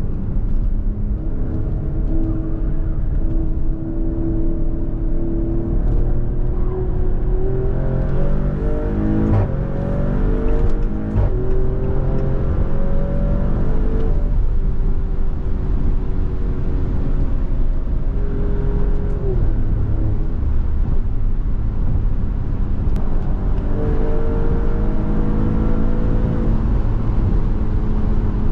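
Maserati Grecale Trofeo's twin-turbo V6 pulling hard under acceleration. The engine note climbs and drops back sharply at each of several upshifts in the middle, and holds a steadier pitch near the start and the end.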